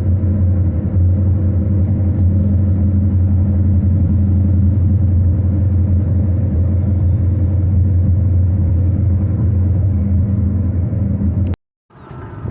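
Steady, loud low vehicle rumble with no clicks or rhythm, broken off by a sudden cut to silence near the end.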